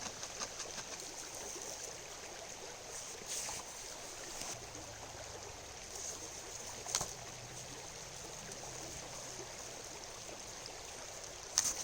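A rain-swollen river flowing steadily, with a few short clicks or knocks over it, the clearest about seven seconds in.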